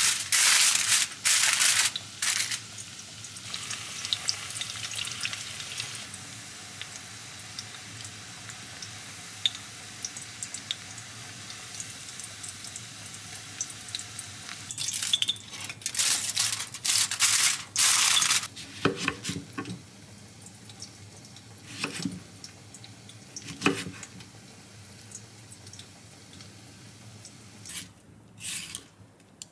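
Aluminium foil crinkling loudly as it is pressed over a plate, then a steady sizzle of cauliflower pieces deep-frying in oil in a steel pot. Metal tongs clatter against the pot and plate as the pieces are lifted out, with a few sharp knocks. Near the end come two or three short scraping strokes of a cucumber being peeled.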